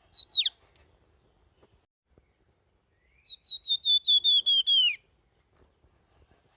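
Flamboyan songbird singing flute-like whistles. First comes a short call with a quick downward sweep, then about three seconds in a rapid run of about ten whistled notes that drops in pitch at the end.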